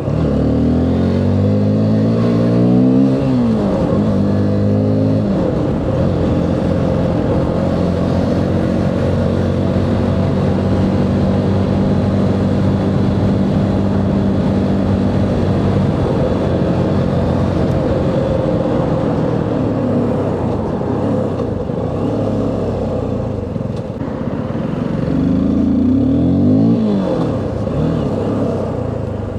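Motorcycle engine accelerating through the gears: its pitch climbs and drops back at a shift twice in the first few seconds, then holds steady at cruising speed, and climbs again near the end.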